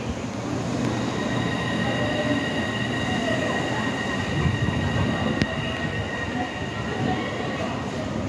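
Kobe Port Liner rubber-tyred automated train running past on its elevated guideway: a steady rumble with a steady high-pitched whine made of several tones, and a single sharp click about five seconds in.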